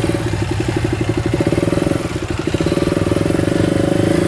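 Motorcycle engine running at low revs, a steady rhythmic thrum that dips briefly about two seconds in.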